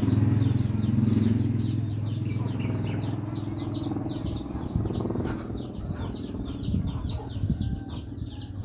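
A bird chirping rapidly in a steady series of short falling notes, several a second, over a low engine hum that fades away about four seconds in.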